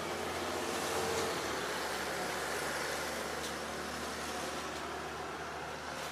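Road vehicle noise: a steady rushing haze that swells to its loudest about a second in, then holds with a slow fade, over a low hum.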